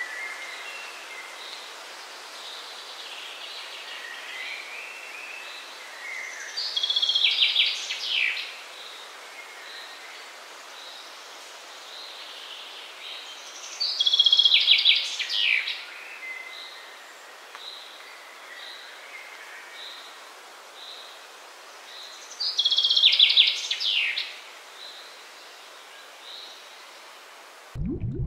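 Songbird singing over a steady outdoor background hiss: three loud, rapid trilled phrases about eight seconds apart, with a soft chirp repeating steadily between them. It cuts off abruptly near the end.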